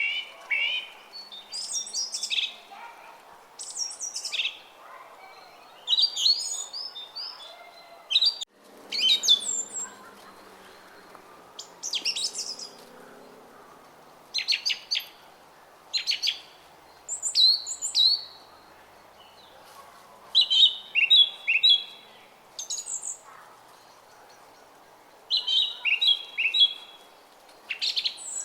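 Small songbirds chirping and singing in short repeated phrases of quick high notes, one phrase every second or two, over the faint steady babble of a brook. The sound drops out briefly about eight seconds in.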